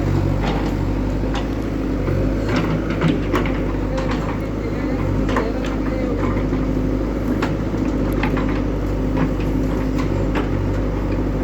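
Heavy diesel machinery engine running steadily, with scattered short clanks and knocks over it.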